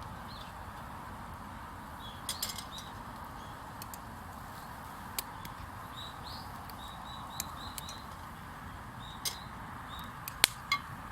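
Small bird chirping in short, high notes over a steady outdoor background hiss, with a few sharp clicks, the loudest near the end.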